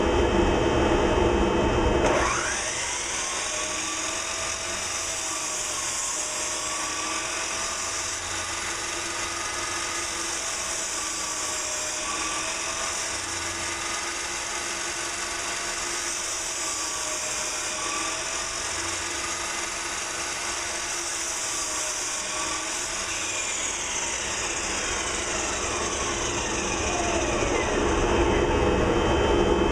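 A 4-inch workshop dust collector running with a steady whooshing hum. About two seconds in, a louder motor cuts off and winds down quickly. Near the end a whine falls slowly as a motor coasts down, while the overall sound grows louder again.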